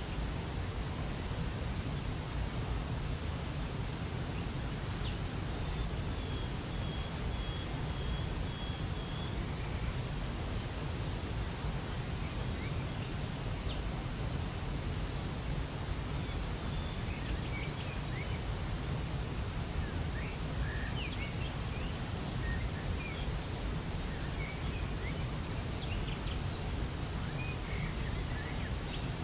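Steady rush of a waterfall, with small birds chirping over it: runs of short high notes and, a few seconds in, a thin whistle held for a few seconds.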